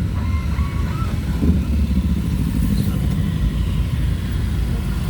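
Vehicle engine and road noise while driving, a steady low rumble.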